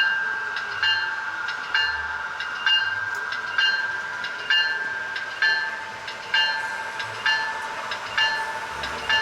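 Model New Haven E-P3 electric locomotive's onboard sound system ringing its bell in a steady rhythm, one strike about every second, while the O-gauge train runs slowly.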